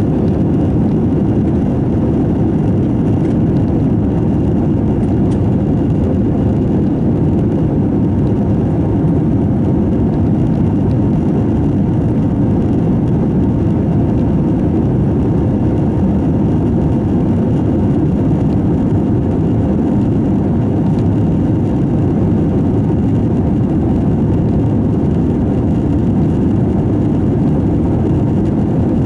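Steady engine and airflow noise heard inside the cabin of an Airbus A321 in flight after takeoff: a loud, even low rumble with no change in pitch or level.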